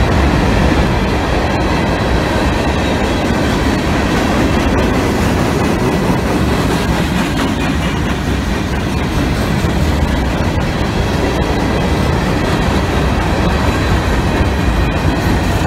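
Freight train of open hopper cars rolling past with a steady rumble of wheels on the rails and clattering over the rail joints.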